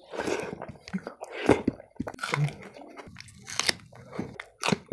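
Close-miked chewing of a mouthful of rice and lentil dal eaten by hand, with wet squishing and several sharp, crunchy bites.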